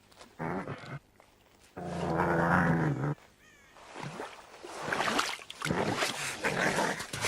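River otter growling, two growls with the second longer and dropping in pitch at its end, then a run of harsher hissing snarls that grows louder from about four seconds in, as the harassed otter protests at a coyote.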